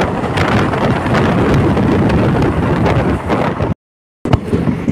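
Wind buffeting the microphone over the rumble of a moving passenger train, heard from its open doorway, with a few sharp clacks. The sound drops out completely for about half a second near the end, then comes back.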